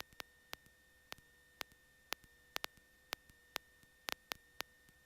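Faint sharp clicks at uneven spacing, about two a second, over a faint steady tone, in an otherwise near-silent gap between radio transmissions.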